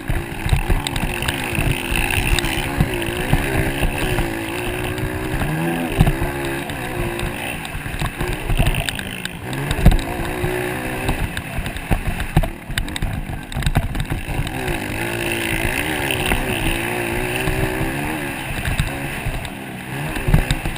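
Motocross bike engines revving, their pitch climbing and dropping again and again as the riders open and close the throttle.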